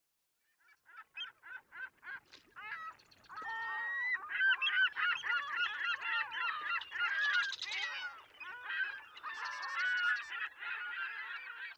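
A flock of birds calling. A few single honking calls come first, then from about three seconds in many calls overlap in a dense, continuous chorus.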